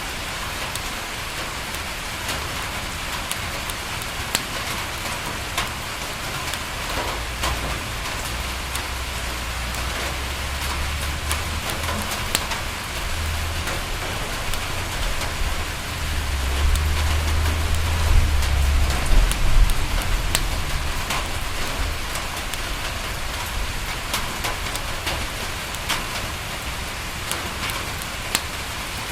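Steady rain pattering on a window, with sharp little crackles from a wood fire scattered throughout. A low rumble swells through the middle and then fades.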